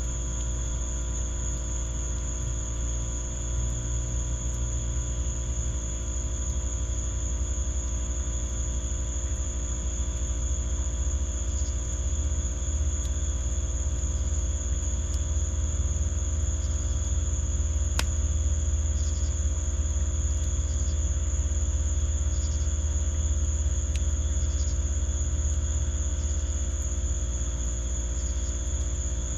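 Crickets trilling steadily in one high band over a steady low rumble, with a few sharp single pops from a wood fire burning in a fire pit.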